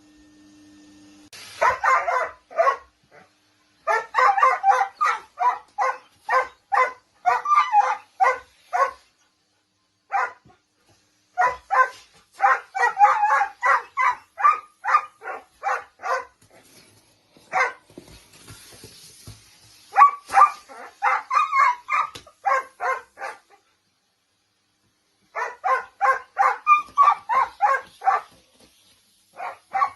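A dog barking in rapid runs of about three barks a second, with short breaks between runs: a dog's alarmed reaction to a vacuum cleaner.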